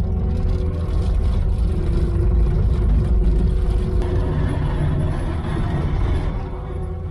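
Diesel truck engine running steadily under load, growing a little louder in the first few seconds and easing off near the end.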